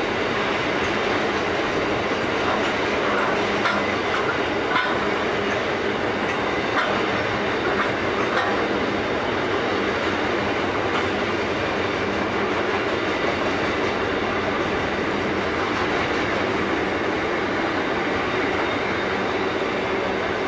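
Long freight train passing: three diesel locomotives go by, then a line of boxcars follows with a steady rumble and clatter of steel wheels on the rails. A few sharper clanks come between about three and eight seconds in.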